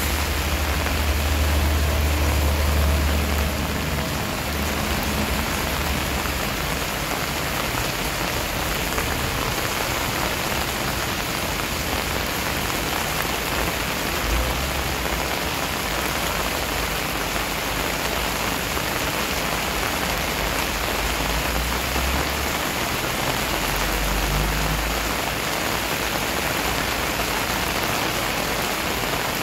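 Steady rain pouring onto wet paving and bamboo leaves, an even, unbroken hiss of falling water. A low rumble comes and goes beneath it several times.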